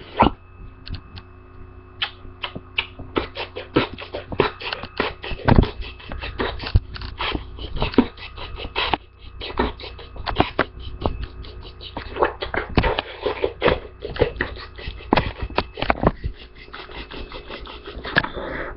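Rapid, irregular clicks and taps, many a second, over a faint steady hum.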